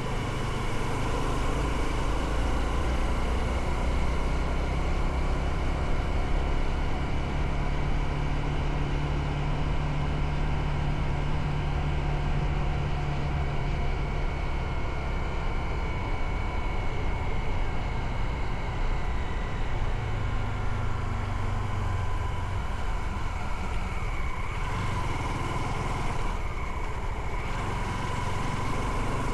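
Motorcycle engine running steadily while riding, with wind and road noise over it.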